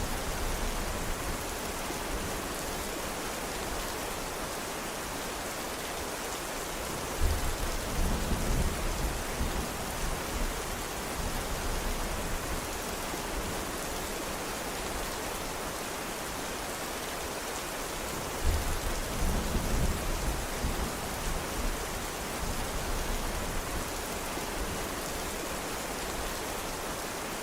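Steady rain falling, with a roll of thunder twice: a sudden deep rumble about seven seconds in and again about eighteen seconds in, each dying away over a few seconds.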